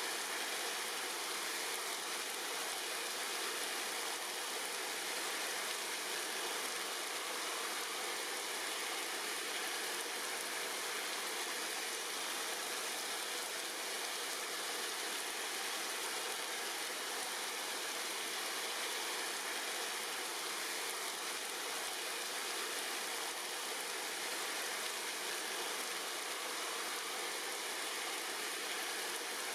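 Steady rain falling on tree leaves: an even, unbroken hiss with no distinct drops or gusts standing out.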